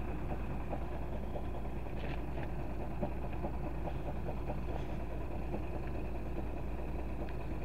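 Steady low hum of a motor vehicle engine idling, with faint scattered ticks.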